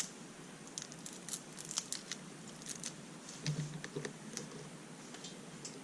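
Small irregular clicks and light rustling of hands handling the battery's parts and foam pieces at a bench.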